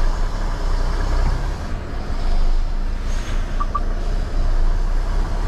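Lorry's diesel engine rumbling steadily at low speed while the truck reverses, heard from inside the cab. Two short beeps sound about three and a half seconds in.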